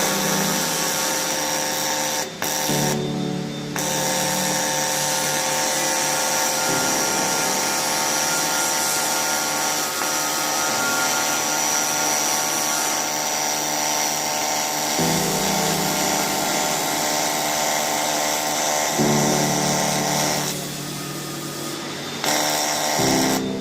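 AC TIG welding arc on aluminium, a steady hissing buzz with fixed high whining tones that breaks off briefly a few seconds in and softens near the end, with background music underneath.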